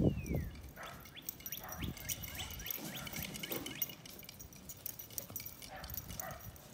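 Small birds chirping in a quick series of short calls, with a soft thump right at the start.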